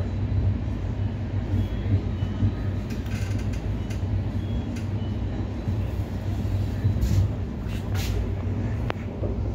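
Steady low rumble and hiss inside a passenger train coach, with a few faint short high-pitched tones in the first half and a couple of sharp clicks near the end.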